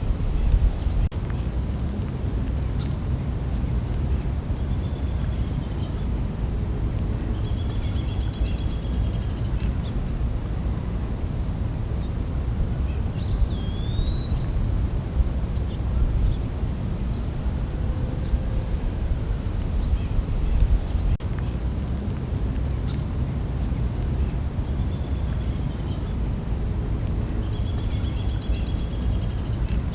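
Night forest ambience: a continuous high insect whine with crickets chirping in a steady rhythm, and a few repeated bird calls over a low rumble.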